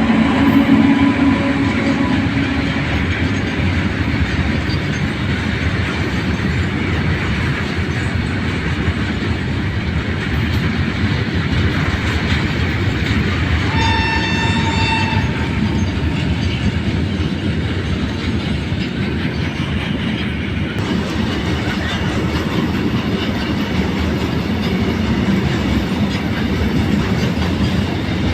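Train running at speed, a steady loud rumble and clatter of wheels on the rails, with one horn blast lasting about a second and a half about halfway through.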